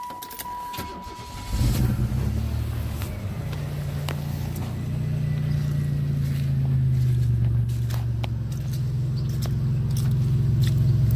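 A 1994 Oldsmobile Cutlass convertible's engine being cold-started: a steady dashboard chime tone first, then the engine catches about a second and a half in and settles into a steady idle.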